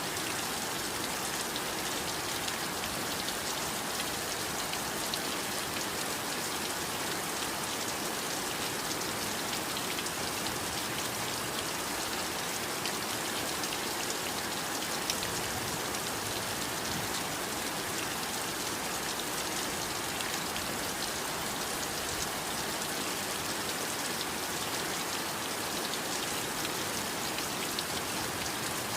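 Steady heavy rainfall, an even hiss with many fine drop ticks, without let-up.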